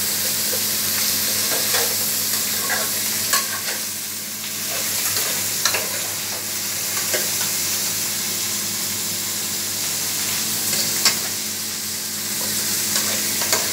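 Chopped vegetables frying in ghee in a metal pot, with a steady sizzle, while a spatula stirs them and scrapes and knocks irregularly against the pot.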